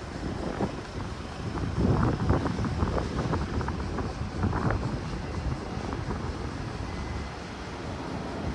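Busy city street ambience: a steady low rumble of traffic with wind buffeting the microphone, and brief clusters of clattering about two seconds in and again around four and a half seconds in.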